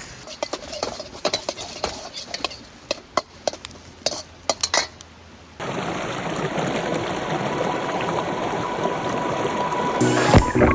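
A metal ladle or spatula clinking and scraping against a steel Chinese wok, stirring fried rice in quick irregular knocks. About halfway in this cuts to a steady hiss, with a loud burst just before the end.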